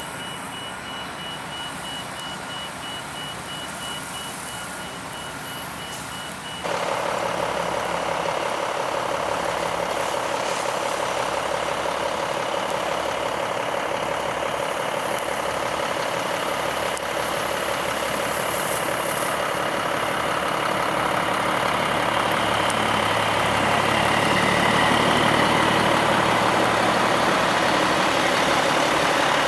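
Heavy truck's reversing alarm beeping steadily over a running engine. About seven seconds in the sound jumps abruptly to a louder, steady truck engine, with a deeper rumble building near the end.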